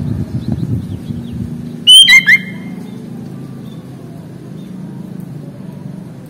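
Sooty-headed bulbul giving a short, very loud burst of a few sliding call notes about two seconds in, over a steady low rumble, with faint chirps before it.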